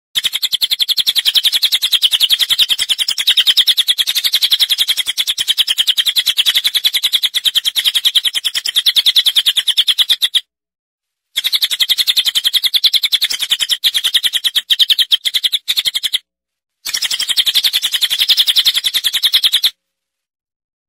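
Recorded cage-bird song: a fast, unbroken stream of high chirps in three runs, about ten seconds, then five, then three, separated by brief silent gaps.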